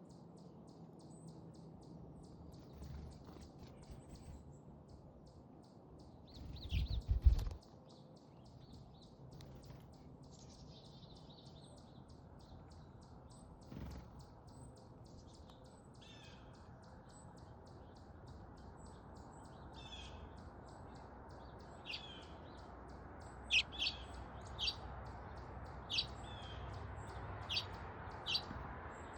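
Small backyard songbirds chirping in short, high notes. A loud low thump comes about seven seconds in. Near the end the chirps grow louder and come about once a second.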